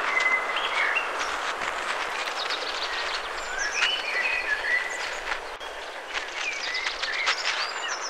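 Natural outdoor ambience: birds chirping in short phrases over a steady hiss, with light ticking higher up.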